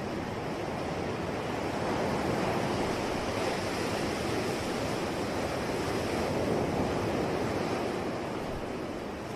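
Ocean waves washing on the shore: a steady rush of surf that swells to a peak in the middle and eases off near the end.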